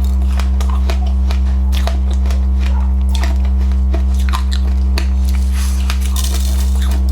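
Crunching and chewing of passionfruit seeds with sesame seeds: many short, sharp crunches at an irregular pace, over a loud steady low hum.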